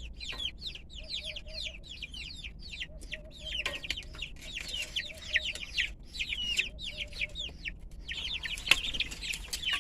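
Young chickens cheeping steadily: many short, high, falling peeps overlapping, with lower clucking notes here and there. There is a sharp tap near the end.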